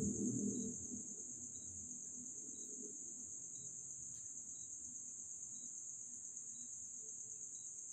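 A steady, high-pitched insect trill, like crickets, with a faint short pip about once a second. Background music fades out in the first second.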